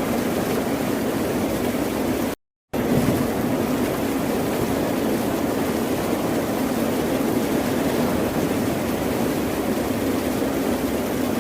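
Continuous ocean surf, a dense, steady wash of waves. About two and a half seconds in it cuts out completely for a fraction of a second, then comes straight back.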